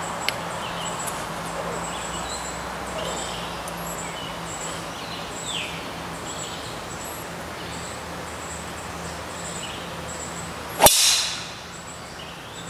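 A golf club striking a ball once, a single sharp crack near the end, over quiet outdoor background.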